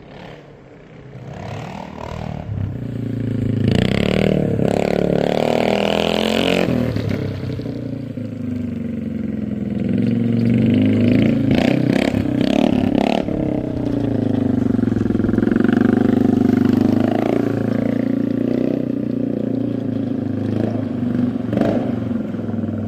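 Engine exhaust note through a muffler, building up over the first few seconds, then running loud with a pitch that rises and falls as the engine is revved.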